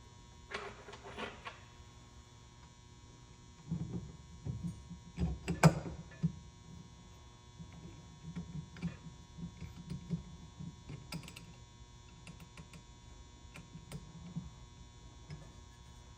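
Scattered knocks and clicks of hands working on a bench chainsaw-chain grinder, loudest about four to six seconds in with one sharp knock, over a steady electrical hum.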